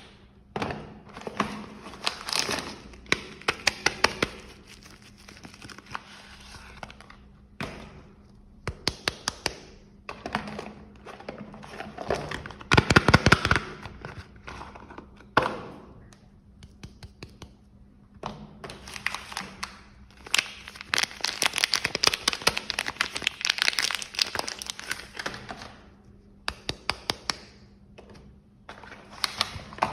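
Soap packaging being handled and unwrapped: paper and plastic wrappers crinkling and rustling, broken by runs of quick sharp taps and clicks. A faint steady hum sits underneath.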